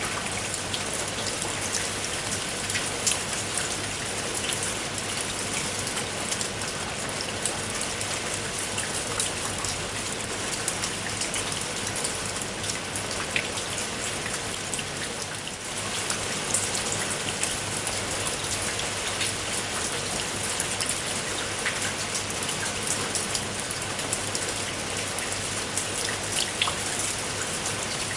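Steady rain with many individual drops pattering and ticking on a hard surface, with a slight brief dip about halfway through.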